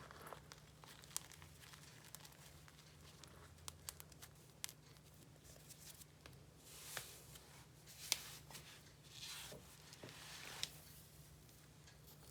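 Chalk being crushed: faint crumbly crackles and sharp little clicks, with a few longer crunches in the second half.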